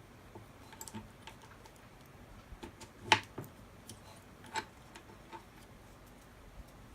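Irregular light clicks and taps of metal engine parts and hand tools being handled during engine bottom-end assembly, with one sharper knock about three seconds in and another about a second and a half later.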